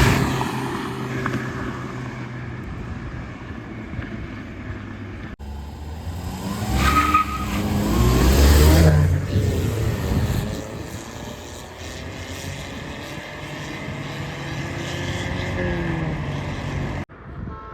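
Car engines revving hard as the cars accelerate in a drag race, loudest a few seconds in, then the engine pitch climbs steadily as the car pulls through a gear. The sound cuts off abruptly twice.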